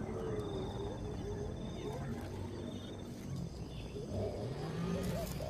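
Animal calls: several short, wavering calls, some low and some rising in pitch, overlapping, with a high buzzy trill twice in the first half.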